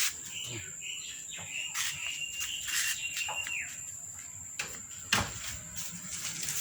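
Birds chirping, including one held whistle-like note about two seconds long that drops in pitch at its end, over a steady high drone. A few sharp knocks, the loudest about five seconds in.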